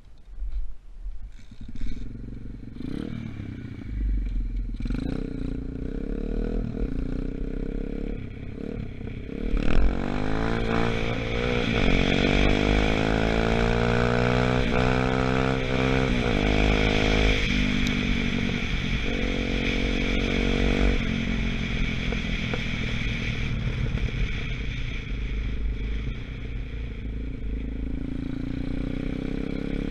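A few clattering knocks, then a 125cc dirt bike engine comes in and runs, getting sharply louder about ten seconds in. It revs up and down several times, then settles to a steady run. The bike is still being run in.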